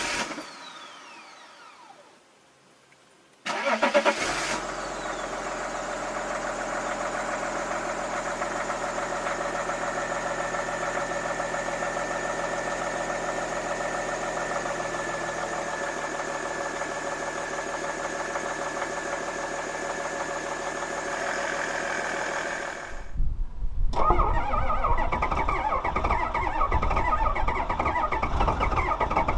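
A diesel car engine cranks and catches about three and a half seconds in, then idles steadily with a thin high whine over its running. Near the end it gives way abruptly to a louder, rougher engine sound.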